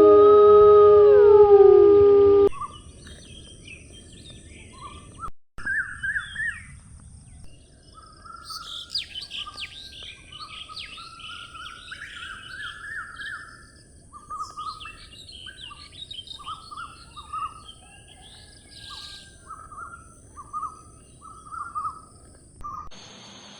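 Several birds chirping and calling in short, overlapping phrases over a steady high hiss. This follows a brief howl with long falling tones that cuts off abruptly about two and a half seconds in.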